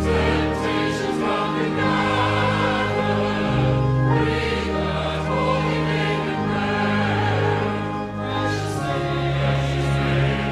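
Choir singing a slow sacred piece in held chords over a deep sustained bass line.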